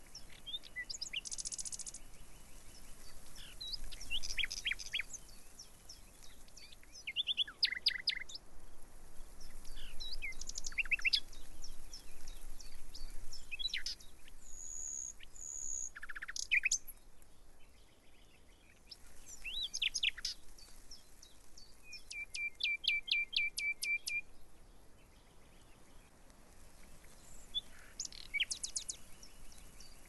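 Wild songbirds singing and calling, a scatter of short high chirps and whistles, with a fast trill of repeated notes about three-quarters of the way through.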